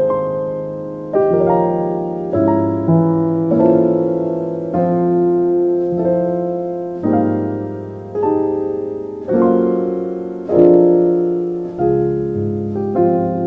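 Slow, gentle piano music: soft chords and notes struck about once a second, each ringing and fading before the next.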